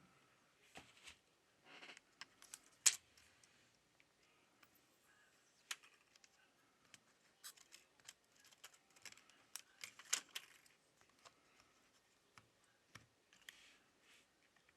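Faint, scattered clicks and short scrapes of small tools and parts being handled while a tablet is reassembled, with the sharpest clicks about three and ten seconds in.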